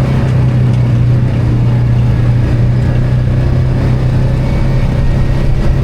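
ATV engine running at a steady speed, a constant drone with no rise or fall.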